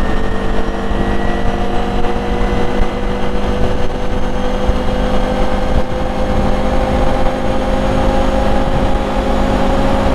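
ATV engine pulling steadily up to highway speed under part throttle, its pitch rising slowly and evenly, over a low rumble of wind and tyres.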